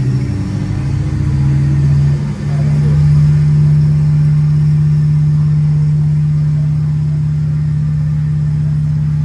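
Jet engine sound effect from the loudspeakers of a model airport, a loud steady low hum that steps up in pitch about two seconds in and then holds, as a model airliner powers up for departure.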